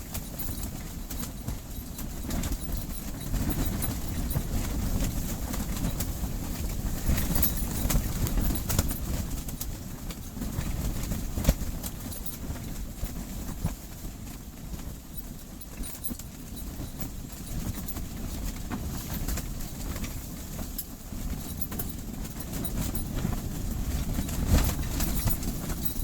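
Strong gusting wind buffeting a tent-style ice-fishing hut: a low rumble that swells and eases, with scattered irregular clicks and knocks from the hut walls.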